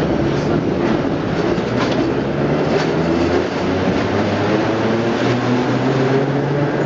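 A 1930s-era New York City subway train running: a steady mix of wheel and rail noise with a low motor hum and faint clicks.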